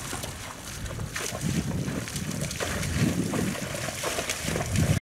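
A horse wading through deep flood water, with irregular sloshing splashes as its legs push through. The sound cuts off suddenly near the end.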